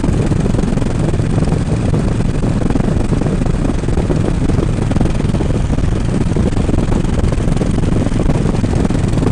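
Harley-Davidson Road King's V-twin engine running steadily while riding at road speed, with wind buffeting the helmet microphone.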